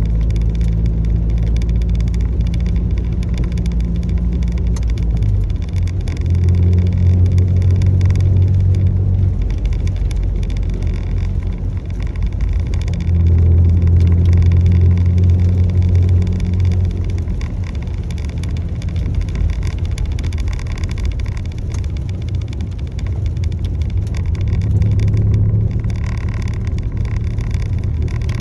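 Steady low drone of a motor vehicle running on the road. Its pitch and loudness swell and ease every few seconds, around 6, 13 and 25 seconds in.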